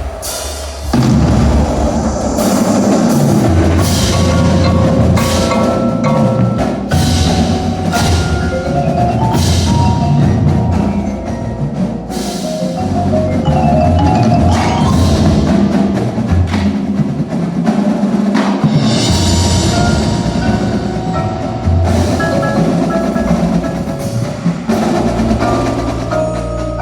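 Indoor winter percussion ensemble playing: marimbas and other mallet keyboards carry stepping melodic lines over drum hits and held low bass notes, the full ensemble coming in loudly about a second in.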